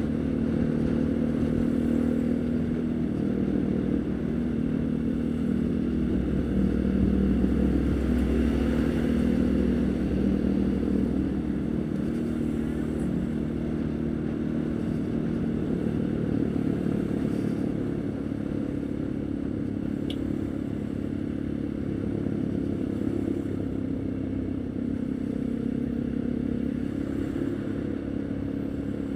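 Haojue NK150's single-cylinder engine running. It swells a little between about six and ten seconds in, then holds steady and slightly quieter.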